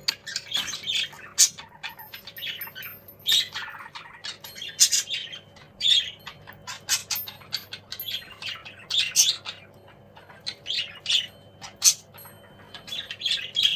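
Young cockatiels calling to each other: a string of short, high squawks and chirps at irregular intervals.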